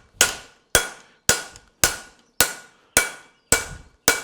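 Steady, rhythmic hammer blows on a fuller, about two a second, each strike ringing off the steel as the fullering groove is run along a hot horseshoe branch on the anvil.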